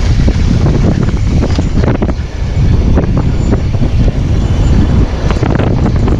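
Wind rumbling on the helmet or bike camera's microphone while a mountain bike rolls down a rocky trail, with rapid irregular clicks and knocks of tyres, chain and frame rattling over the rocks.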